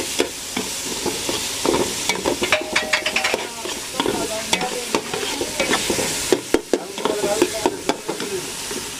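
Onion, tomato and crushed ginger-garlic frying in oil in a metal pot and being stirred with a metal spoon: a steady sizzle with frequent clicks and scrapes of the spoon against the pot.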